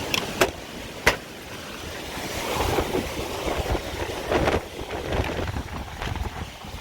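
Hurricane-force wind gusting and buffeting the microphone, swelling and easing. Two sharp knocks cut through it within the first second or so.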